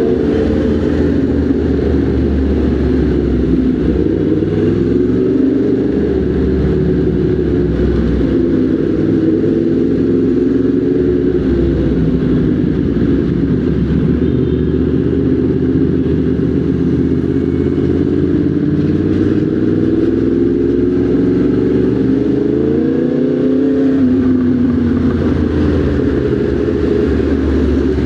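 Motorcycle engine running under way, its pitch drifting up and down with the throttle. Near the end it climbs, then eases off again.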